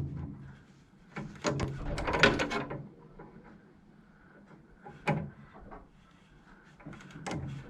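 Clinks and knocks of a small socket and its wrench being handled and fitted onto the Jubilee clip of a radiator's bottom hose: a quick cluster of knocks about two seconds in, then single sharp clicks near five seconds and again near the end.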